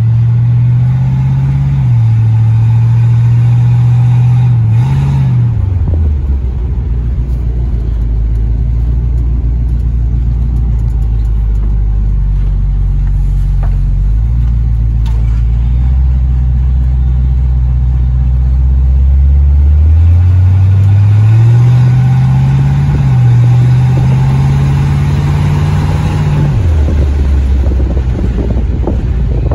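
A 1941 car's engine heard from inside the cabin while driving: it pulls at higher revs for the first few seconds, then drops back to a low, steady run for about fifteen seconds. About twenty seconds in it revs up again, holds, and drops back near the end.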